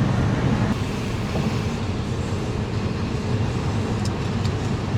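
Steady low road and engine rumble of a moving car, heard from inside the cabin, with a couple of faint ticks about four seconds in.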